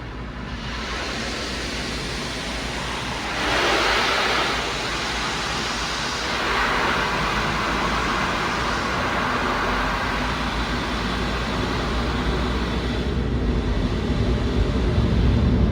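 Automated tunnel car wash equipment running: a steady rushing noise, with a louder hiss about four seconds in and a low rumble that grows toward the end.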